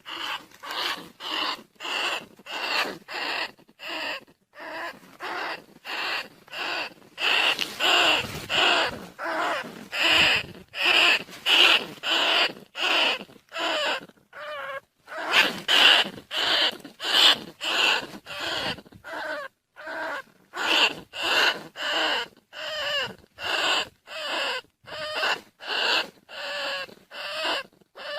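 Field rats squealing in short, sharp calls repeated about twice a second, with a few brief pauses. It is a recorded rat call used as a lure to draw rice-field and bandicoot rats.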